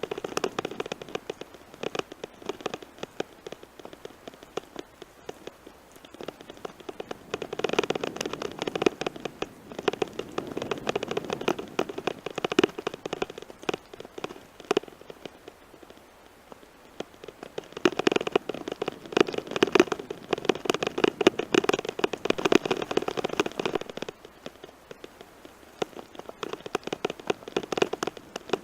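Tyres rolling over a gravel forest road, a dense, irregular crackle and rattle that swells louder twice for several seconds at a time.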